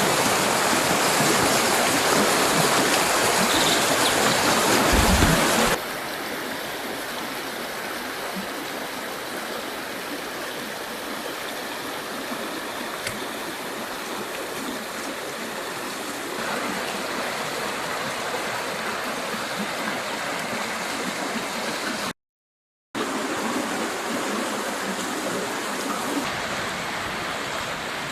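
River water rushing steadily over rocks. It is louder for the first few seconds, then abruptly drops to a quieter rush, and cuts out completely for under a second near the end.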